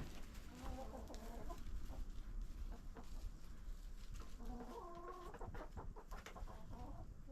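Chickens clucking: a short run of calls about a second in and another around five seconds.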